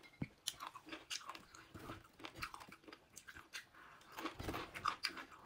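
Close-up crunching and chewing of raw cucumber: many irregular, crisp crunches as it is bitten and chewed.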